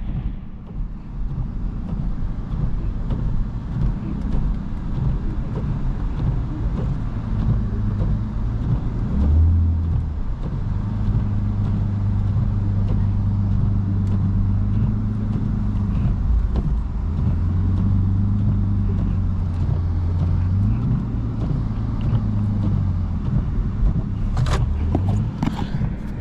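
Lexus IS250's 2.5-litre V6 engine running as the car is driven, a steady low hum that steps up and down in pitch a few times.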